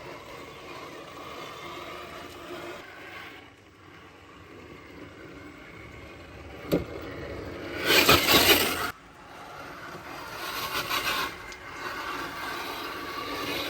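Radio-controlled crawler truck scrambling over rough ground, with tyres and chassis scraping and crunching, a sharp knock about seven seconds in and a loud burst of rushing noise around eight to nine seconds.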